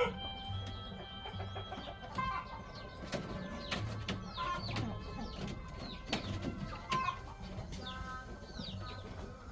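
Chickens clucking and calling, with many short, high, falling calls, over soft background music with a steady pulsing beat.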